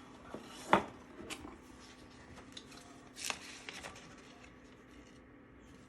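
Handling noises from a handbag and its packaging: soft rustling with a sharp click a little under a second in, another click about three seconds in, and a few lighter ticks.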